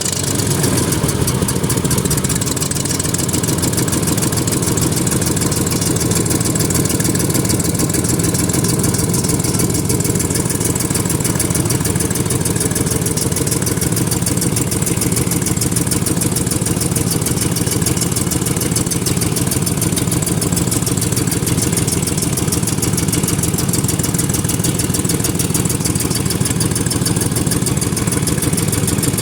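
Chevrolet 8.1 L Vortec big-block V8 idling steadily just after starting, with exhaust still leaking at the top of the manifold despite a broken-exhaust-stud bypass kit.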